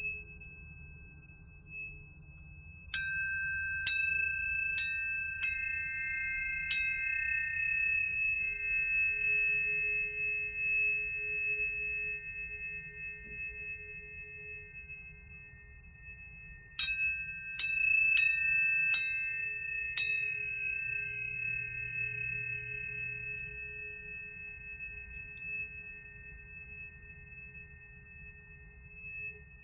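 Planetary tuning forks being struck and left to ring: two quick runs of about five strikes each, each strike a sharp tap followed by a clear metallic tone, with several tones sustaining and slowly fading between the runs.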